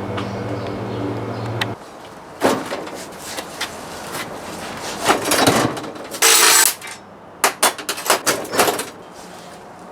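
A steady machine hum cuts off suddenly about two seconds in. Scattered clicks and knocks of small parts and tools being handled follow, with one short hiss about six seconds in.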